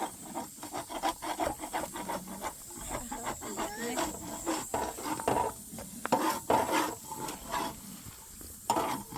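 Irregular scraping and rubbing strokes with small knocks, coming unevenly through the whole stretch.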